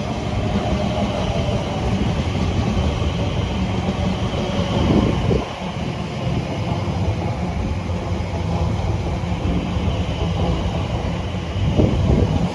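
Class 345 Elizabeth line electric multiple unit running past, a steady rumble of wheels on rail with its traction noise. It swells louder about five seconds in and again near the end.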